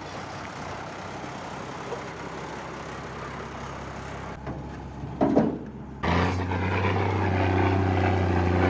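REO 6x6 truck engine running with a steady drone, then, about six seconds in, a louder, steady, low-pitched engine note as it holds constant revs; a brief louder knock comes just before the change.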